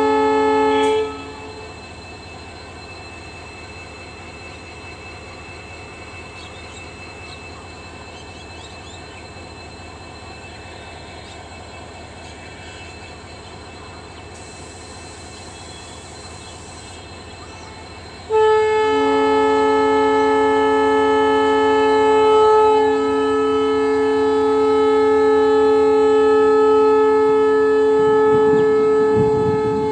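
Indian Railways EMD diesel locomotive's horn sounding and cutting off about a second in, followed by a quieter steady locomotive hum. The horn sounds again in one long blast from a little past the middle that runs on to the end.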